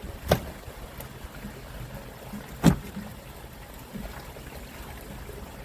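Two short, sharp knocks about two and a half seconds apart, over the steady low noise of a fishing boat on the water.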